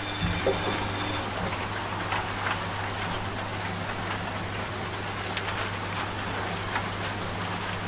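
Steady rain falling, with scattered individual drops ticking, over the low, steady hum of a washing machine running.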